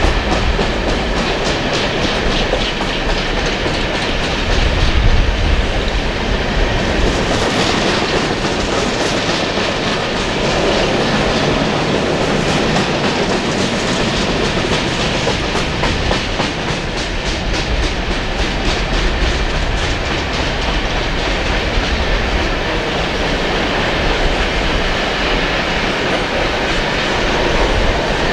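A BNSF coal train's empty hopper cars rolling past, steel wheels clicking in a steady repeating rhythm over the rail joints above a continuous rumble of the train.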